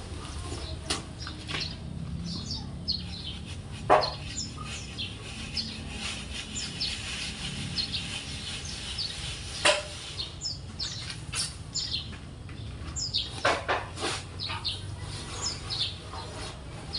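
Small birds chirping repeatedly, with a few short sharp knocks about four seconds in and near ten seconds, over a low steady rumble.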